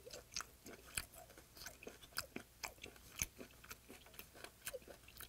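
Close-up chewing of raw yellow stingray wing sashimi, a quiet, irregular wet crackle of small clicks several times a second, with the soft cartilage bones of the wing giving slight crunches.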